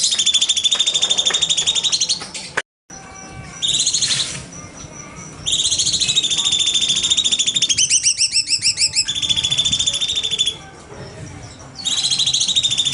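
Cucak cungkok songbird singing: loud, rapid strings of high repeated notes in long bursts, with a run of quick rising whistled notes about eight seconds in. The song breaks off for a moment of silence near three seconds in.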